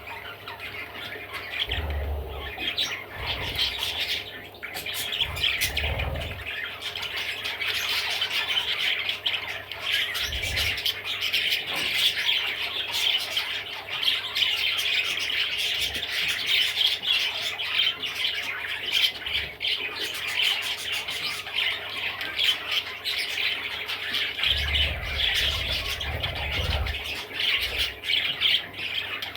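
Budgerigar chattering and warbling without a break, a busy stream of quick clicks and squawky notes, with a few low bumps about two and six seconds in and again near the end.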